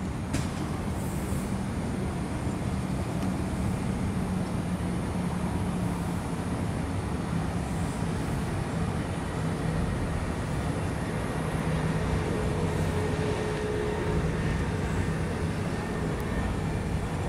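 Electric commuter train running along an elevated viaduct: a steady rumble with a low hum, growing a little louder in the second half.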